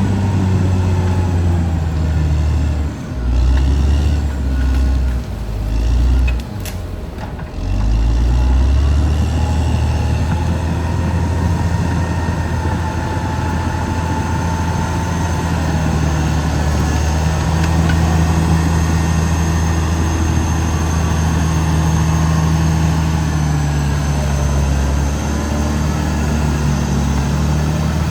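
Caterpillar D6R XL bulldozer's diesel engine running under load. Its sound dips and recovers several times between about three and eight seconds in, then runs steadily.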